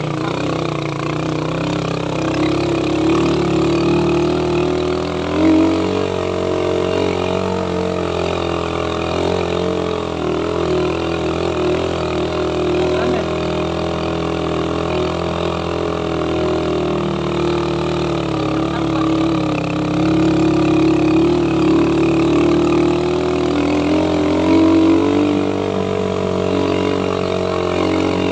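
Suzuki Raider 150 motorcycle engine running steadily on the move, its pitch rising and falling gently with the throttle.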